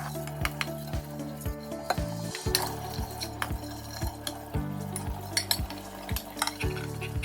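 Background music with a steady beat over the splash, scrubbing and clinks of metal pots being washed.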